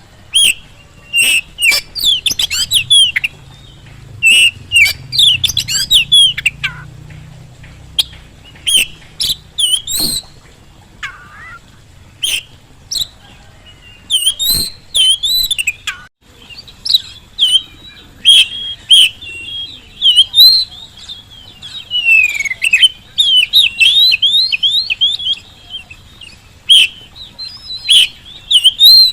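Oriental magpie-robin (kacer) in full song: a rapid, varied run of whistled phrases mixed with sharp chips, with a few brief pauses.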